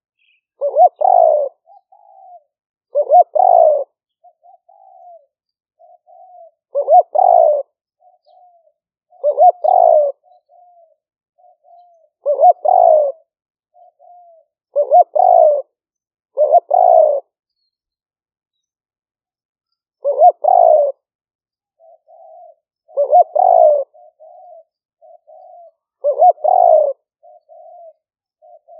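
Spotted dove cooing: loud, repeated coo phrases every two to three seconds, with softer short coos between them and one pause of about three seconds past the middle.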